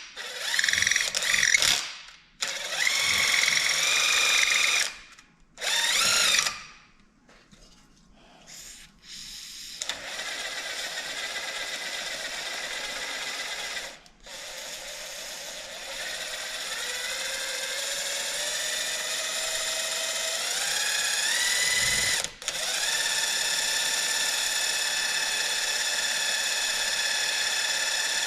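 A handheld power tool's motor whining, used to clean crud out of a compression release part: several short bursts with the pitch rising and falling, then a steady run whose pitch climbs slowly, stopping for an instant about two-thirds through before running on.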